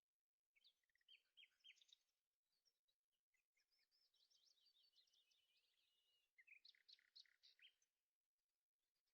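Faint birdsong: groups of quick high chirps, a rapid twittering trill through the middle, and another burst of chirps near the end.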